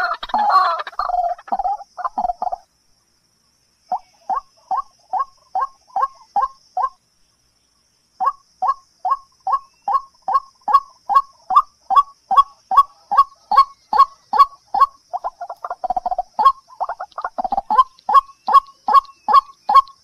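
A bird calling in a fast, even series of short calls, about two or three a second, breaking off twice briefly before running on steadily.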